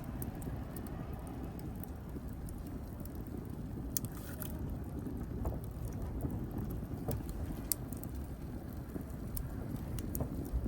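Wood fire burning with a steady low rumble of flames and scattered sharp crackles and pops, a few louder snaps about four and seven seconds in.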